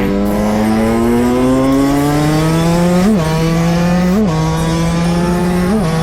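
Two-stroke motorcycle engine pulling under throttle, its pitch climbing steadily for about three seconds and then holding. Three brief, sharp rev spikes come in the second half.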